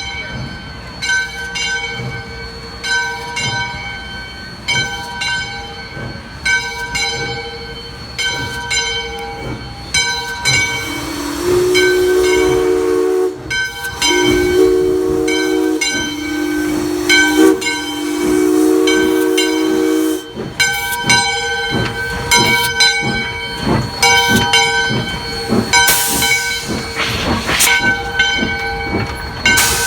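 Steam train departing: a locomotive bell rings steadily, a chime whistle sounds a series of about four blasts from about a third of the way in, then exhaust chuffs and a burst of steam hiss as the train starts to move.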